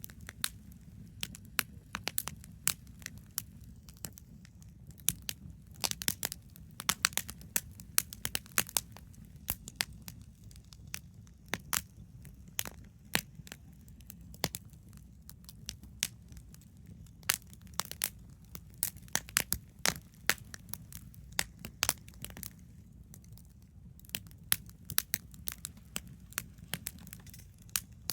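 Wood campfire crackling: irregular sharp pops and snaps, bunched in clusters, over a steady low rumble.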